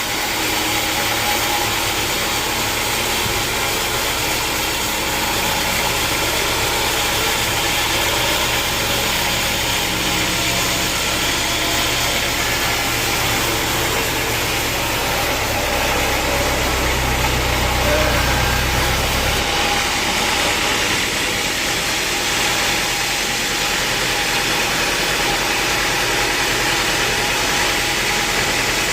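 Sawmill machinery running with a steady mechanical noise, joined a few seconds in by a low hum that cuts off about two-thirds of the way through.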